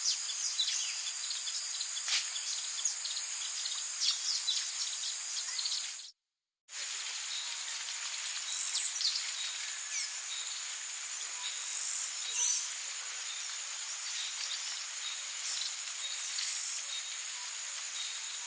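Rainforest ambience: a steady chorus of insects shrilling over a rain-like hiss, with a few high bird calls in the second half. The sound cuts out completely for about half a second around six seconds in.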